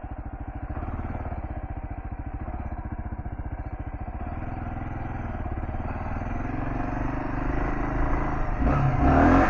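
Kawasaki KLR650's single-cylinder engine running at low revs, then pulling harder and louder as throttle is added. Near the end a louder rush of noise joins in as the rear tyre spins, peeling out on the loose dirt.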